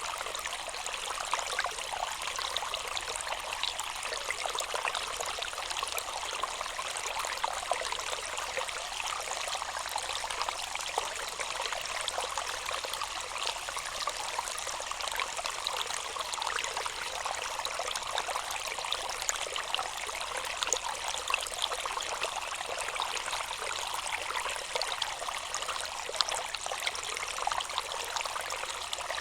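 Water running and trickling steadily, with many small splashes and no pauses.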